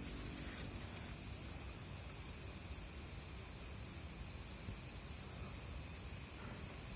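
Night insects, crickets, chirping in a steady high-pitched trill.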